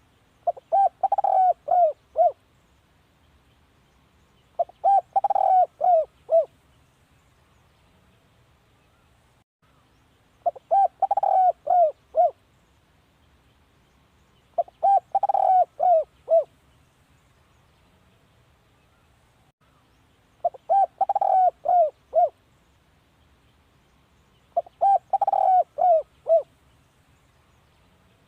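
Spotted dove cooing: six phrases of several quick coo notes each, repeated every four to five seconds. It is the territorial call of a decoy dove of the kind used to draw in wild doves.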